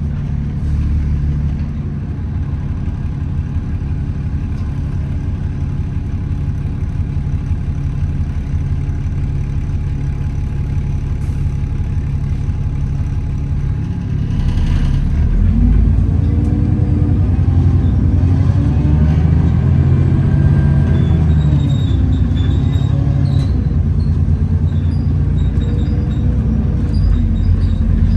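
Alexander Dennis Enviro400 double-decker bus heard from inside. The engine runs steadily, then about halfway through it pulls away: the engine and drivetrain note rises and falls through the gears, louder, with the whine the uploader calls "hoover noises" and loud axles.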